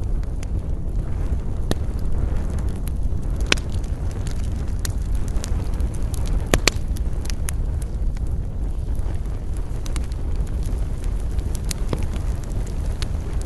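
Campfire burning with a steady low rush, the wood giving a sharp crackle or pop every second or few, the loudest a quick double pop about halfway through.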